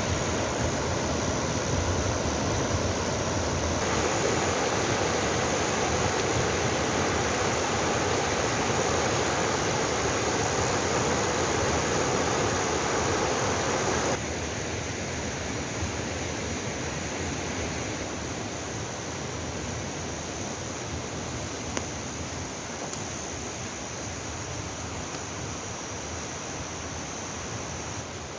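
A mountain valley stream flowing, a steady rushing water noise that drops abruptly in level about fourteen seconds in.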